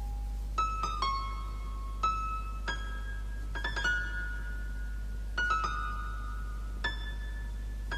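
Instrumental song intro: a keyboard playing slow, separate notes and small chords, each struck and left to ring out, over a steady low drone.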